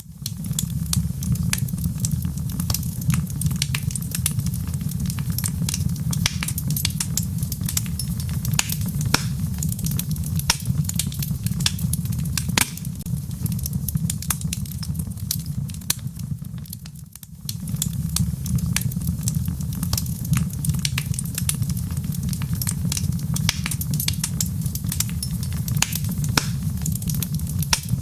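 Wood logs burning in a fireplace: frequent sharp crackles and pops over a steady low rumble of flames. The sound dips briefly about seventeen seconds in, then resumes.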